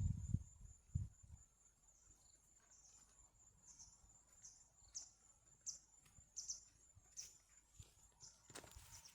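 Faint forest ambience: a steady high insect drone with a run of short high chirps, about one every 0.7 seconds. A few soft low thumps come in the first second or so, and a short burst of rustling near the end.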